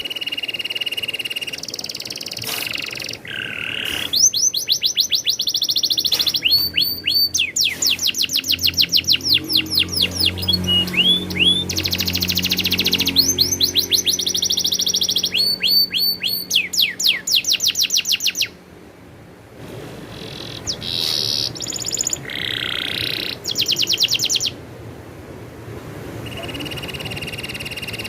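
Domestic canary singing: long rolling trills of rapidly repeated high notes alternating with steady whistled notes, in several phrases, with a short pause about two-thirds of the way through.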